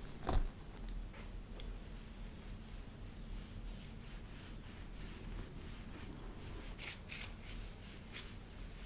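Soft, repeated rubbing strokes through hair, a few stronger strokes a little before the end, with one sharp knock just after the start.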